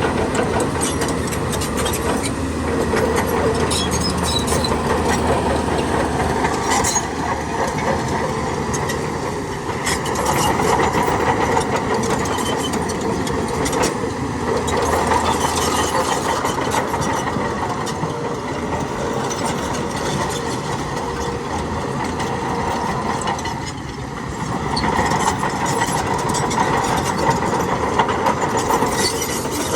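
Diesel engine of heavy earthmoving machinery running continuously. It swells under load a couple of times, with scattered short metallic clanks.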